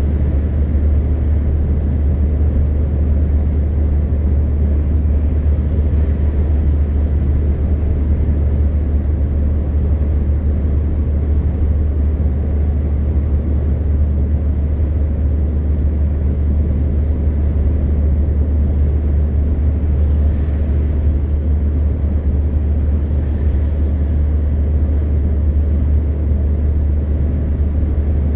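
MAN TGX 520 truck's straight-six diesel running at a steady cruise, a constant low drone with road and tyre rumble, unchanged throughout.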